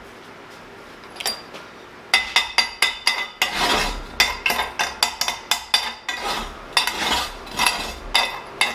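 Chipping hammer knocking slag off fresh flux-core weld beads on steel: sharp, ringing metal-on-metal strikes, about four or five a second, starting about two seconds in.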